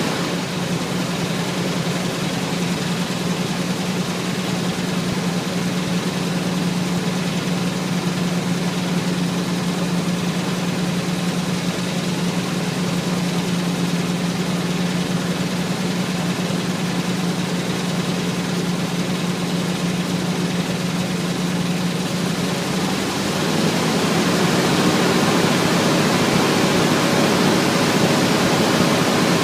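Chevy Suburban's 305 V8, bored 30 over, idling steadily on a cold start. About three-quarters of the way through, the steady engine note fades and the sound turns slightly louder and more hissy.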